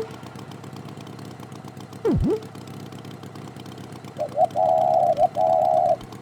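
Cartoon sound effects over a steady low engine-like rumble. About two seconds in comes a quick swoop that drops in pitch and springs back up. From about four to six seconds a run of wavering, horn-like honks plays: a few short ones, then two longer ones.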